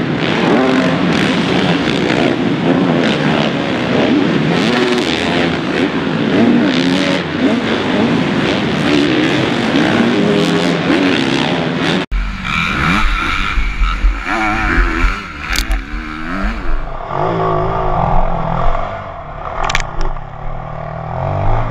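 Supercross dirt bikes racing, engines revving and accelerating. About twelve seconds in the sound cuts abruptly to another stretch of bikes revving up and down.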